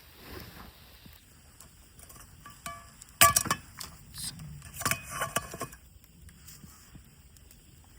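Dishes and utensils clinking and knocking together, with short ringing tones: a light clink about two and a half seconds in, a louder cluster of clinks just after three seconds, and another cluster around five seconds.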